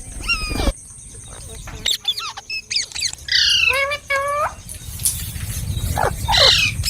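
Parrot calling: a string of short, sharp squawks that sweep up and down in pitch, several in quick succession in the middle. A low rumble sits underneath in the second half.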